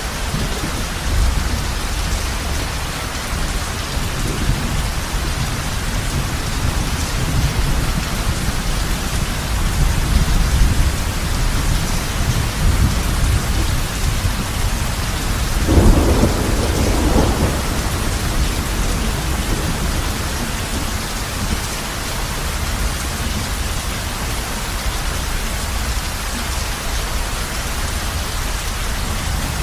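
Heavy rain falling steadily on a roof, with thunder rumbling low in the background and one louder thunderclap about halfway through.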